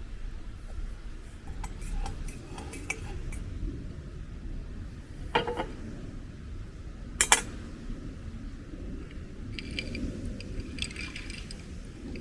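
Tableware and utensils clinking lightly, with two sharper knocks about five and seven seconds in, the second the loudest.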